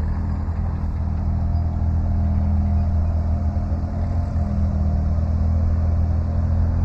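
An engine running steadily at low speed, a low even drone that grows slowly louder toward the end.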